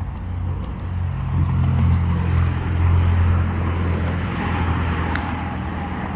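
A motor vehicle's engine running close by, a low steady hum that grows louder over the first three seconds and then slowly eases off.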